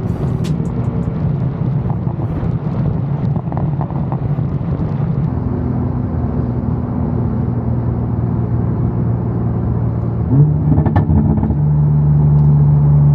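Car engine and exhaust running at steady revs, then rising in pitch and getting louder about ten seconds in as the car accelerates, and holding the higher note.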